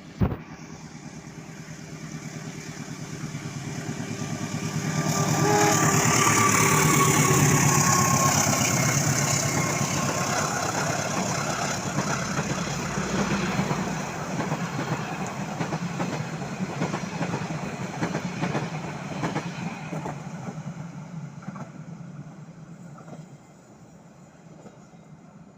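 A KAI train passing by: the sound builds from about four seconds in to its loudest around six to nine seconds, then the train rolls past with wheel clatter over the rail joints and slowly fades away near the end. A short sharp click comes right at the start.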